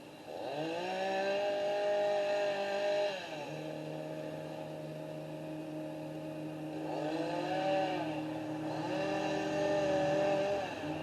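An engine repeatedly revved up and dropped back: it revs up about half a second in and holds for nearly three seconds, settles to a lower steady speed, then revs up twice more in the second half before dropping back near the end.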